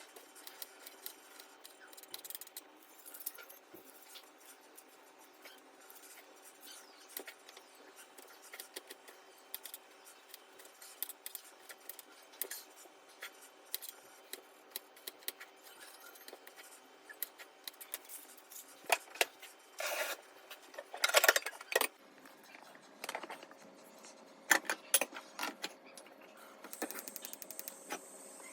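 Small household objects and utensils being handled: many light clicks, taps and rubs, with a few louder clatters and scrapes a little past two-thirds of the way through.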